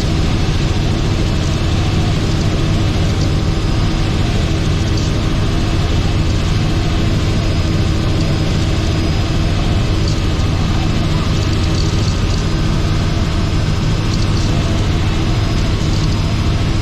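Robinson R44 helicopter's piston engine and rotors running at a loud, steady drone with no change in pitch.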